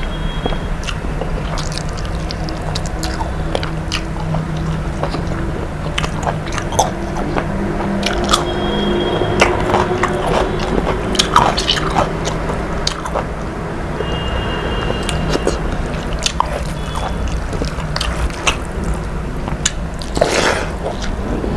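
A person chewing and biting into food close to the microphone, with many small sharp clicks and crunches, over a steady low hum.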